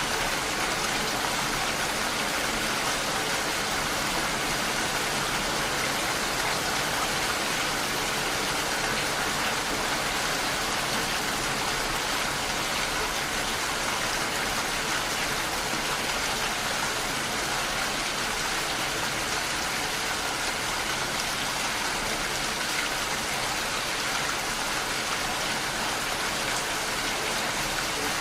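Steady, even rain falling, a continuous hiss of many drops with no change in intensity.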